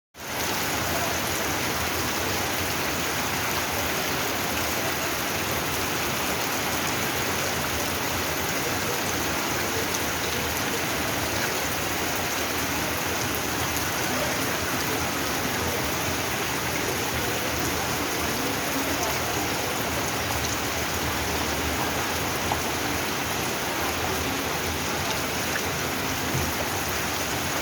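Rain falling steadily, a dense even hiss of drops with no letup.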